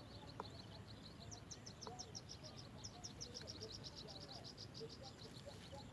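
A bird chirping in a rapid run of short, high notes, about eight a second, for a few seconds, faint against low outdoor background noise.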